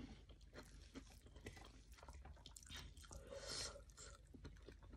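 Faint close-up chewing of rice and fried omelette, with many small wet mouth clicks. A brief louder noise comes about three and a half seconds in.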